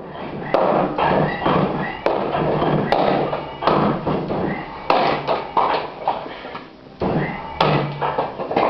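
An irregular series of heavy thumps and knocks, roughly one a second, each dying away quickly.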